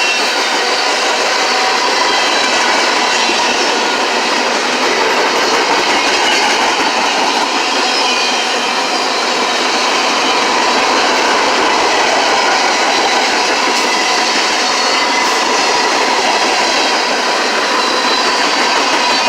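Train cars rolling past close by, a steady loud rush of wheels on the rails with clickety-clack.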